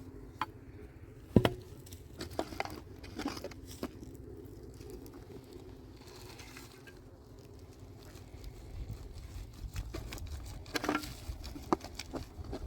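Scattered small knocks, clicks and scrapes, with one sharp knock about a second and a half in and a cluster of knocks near the end, over a low rumble.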